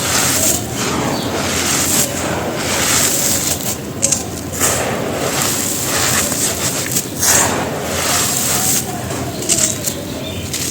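Clumps of dry, gritty red dirt being crumbled, a continuous gritty crunching with sharper crunches every second or two.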